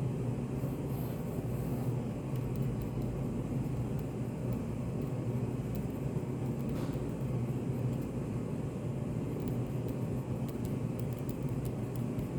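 Study café room ambience: a steady low hum with faint scattered small clicks and ticks.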